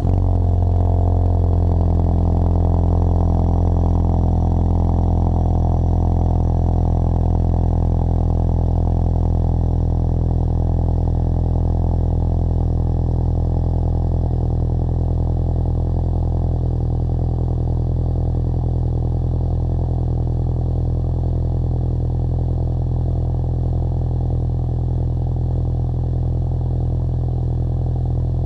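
2015 Ford Mustang EcoBoost's turbocharged 2.3-litre four-cylinder, just started, idling steadily through a Magnaflow Competition exhaust. The idle holds an even, deep tone that eases off slightly in loudness over the half minute.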